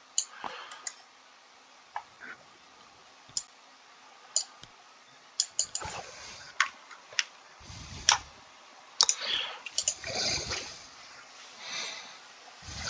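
Scattered light clicks and taps, a dozen or so at uneven intervals, with a few soft low rustles in between, from handling a strategy war game as units are moved.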